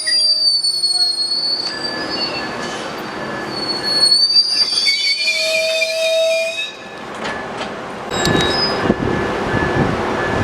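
Train wheels squealing against the rails in several high, wavering tones. The squeal fades about two-thirds of the way in and gives way to a broader rumble with clicks near the end.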